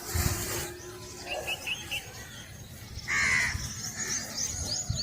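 A crow caws once, loudly, about three seconds in, after a brief harsh burst at the start. Small birds chirp and twitter throughout.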